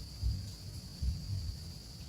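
Insects shrilling in one steady, high, unbroken tone, over low, uneven rumbling bumps.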